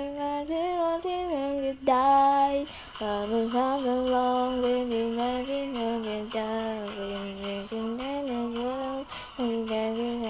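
A female voice singing a slow melody with no clear words, in long held notes that slide from pitch to pitch. There are short breaks about three seconds in and near the end.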